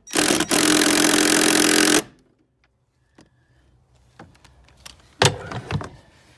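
A power tool runs steadily for about two seconds, then stops abruptly as it loosens the bolt of the battery hold-down bracket. A few sharp metal clanks follow near the end as the bracket is handled.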